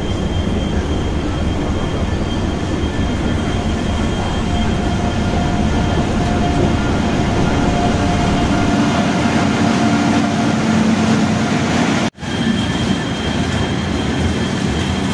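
An electric locomotive and its coaches rolling slowly into a station platform: a steady rumble with a faint high whine and a lower hum over it. The sound drops out for an instant about twelve seconds in.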